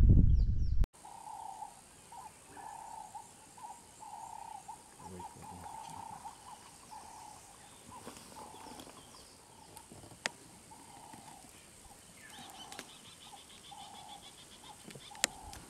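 Quiet bush ambience with a bird repeating a single low note about twice a second, and a fast high trill from another bird near the end. A loud low rumble fills the first second and cuts off abruptly.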